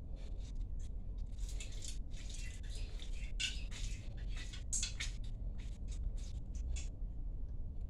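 Irregular small clicks and rustling, like close handling of objects, over a low steady hum.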